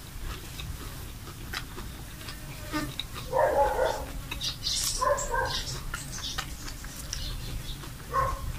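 A person chewing crunchy food, with scattered small clicks, and three short pitched calls or grunts about three, five and eight seconds in.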